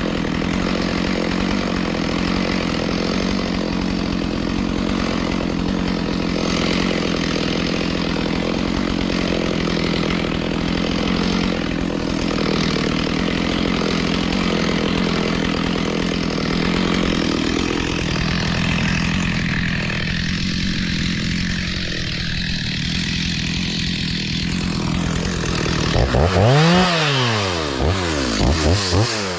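Chainsaw running steadily while cutting wood, then revved down and up a few times near the end.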